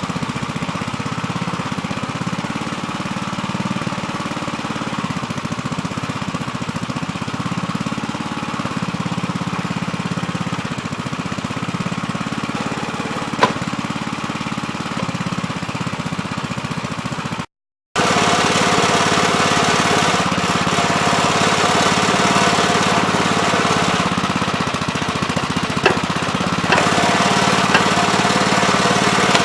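Gravely Terramite backhoe's engine running steadily while digging, with a couple of brief sharp clicks. About two-thirds of the way through the sound cuts out for a moment, then comes back louder.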